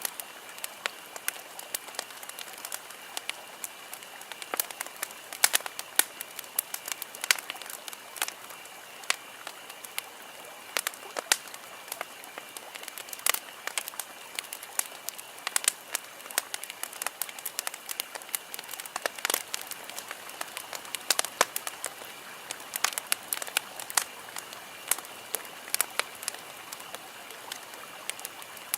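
Wood campfire crackling, with irregular sharp pops and snaps over a steady hiss of burning.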